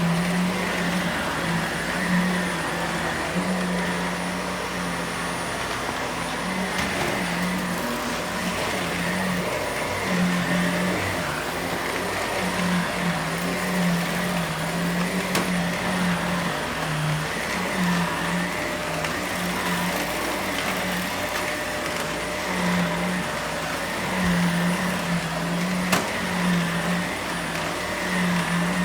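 Vacuum cleaner running continuously, its motor hum wavering between two close pitches every second or so over a steady rush of air.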